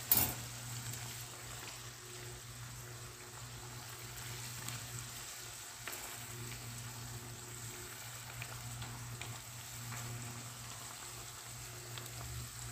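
Chicken pieces and chopped tomatoes cooking in ghee in a wok, with faint scattered pops and crackles over a steady low hum. A brief clatter right at the start.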